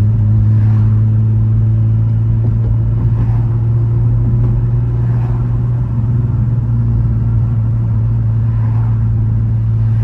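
Car engine running at a steady cruise, a constant low drone with road noise underneath, holding much the same pitch throughout.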